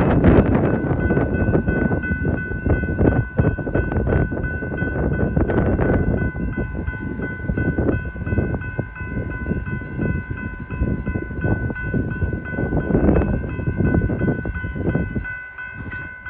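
Canadian Pacific Holiday Train rolling past at close range, its wheels clattering over the rails in a dense, loud rumble. A steady high-pitched ringing tone sounds throughout. The noise falls away near the end as the last cars pass.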